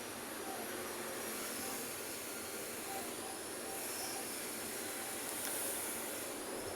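Steady city road traffic noise from heavy vehicles such as buses and trucks passing, with a few faint high whines that rise and fade.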